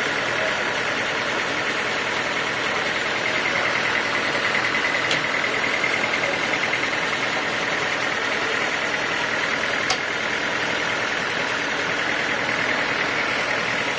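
Homemade band sawmill running steadily, a continuous machine noise with an even high whine, and two faint clicks about five and ten seconds in.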